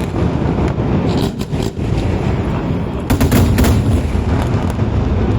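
Festival fireworks going off in rapid volleys: a dense run of sharp bangs and crackles over a deep rumble, with a louder cluster of bangs about three seconds in.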